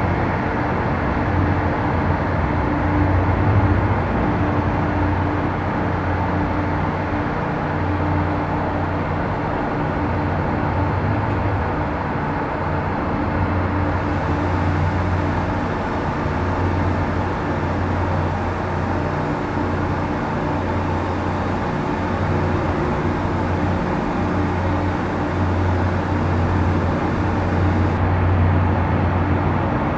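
Boat engines on the harbour running steadily, a low even hum with no sudden changes.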